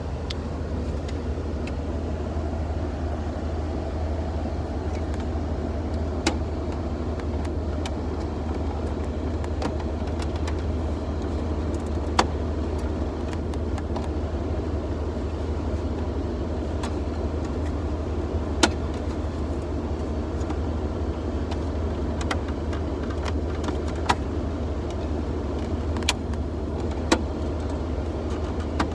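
Steady low drone of a running vehicle, engine and road noise, with a few sharp clicks scattered through it.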